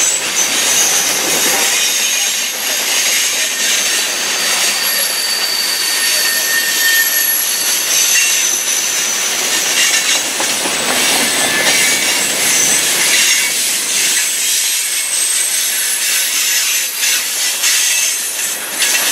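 Freight cars of a manifest train (covered hoppers, a boxcar, tank cars) rolling past at speed: a loud, steady rush and rattle of steel wheels on rail, with thin high-pitched wheel squeals running through it.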